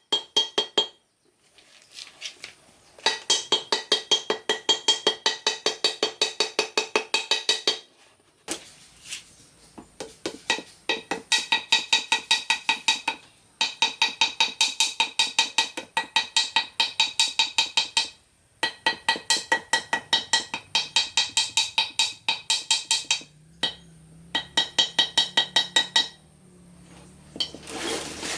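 Rapid hammer blows on a ringing metal part, about five strikes a second, in runs of several seconds broken by short pauses.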